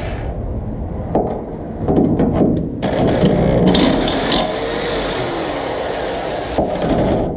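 Metal clatter and knocks, then a handheld power tool running steadily against the steel truck frame for a few seconds before stopping.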